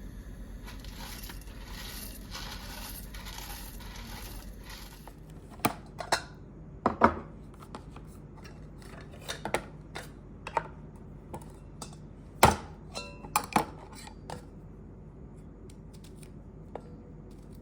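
Kitchenware being handled: a steady hiss for about the first five seconds, then scattered clinks and knocks of utensils against dishes and pots, some ringing briefly. The loudest knock comes about two-thirds of the way through.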